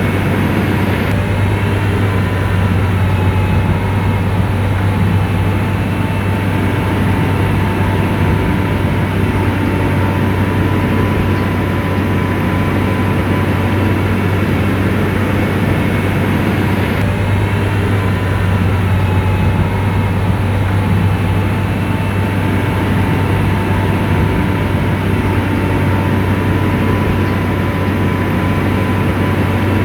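SDLG motor grader's diesel engine running steadily under load, a constant deep drone with a faint whine above it.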